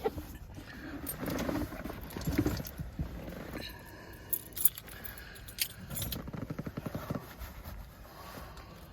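Keys jangling among handling noises: rustles, sharp clicks and a brief run of quick rattling pulses just before the end.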